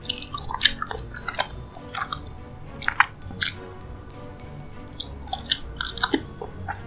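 Close-miked chewing and wet mouth smacks of someone eating a soft dessert, in irregular clicks, over quiet background music.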